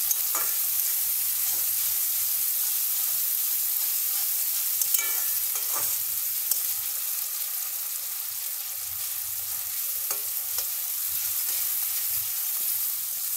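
Chopped tomatoes sizzling in hot oil and onion masala in a metal kadai, stirred with a metal spatula that scrapes and clinks against the pan now and then.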